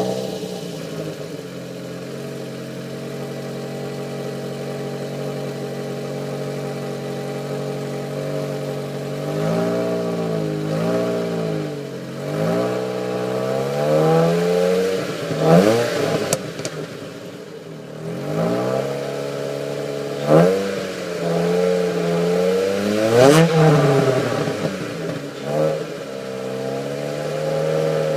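2004 Ford SVT Focus's 2.0-litre four-cylinder engine through its stock exhaust, idling steadily just after starting. From about nine seconds in it is revved in a series of quick throttle blips that rise and fall in pitch.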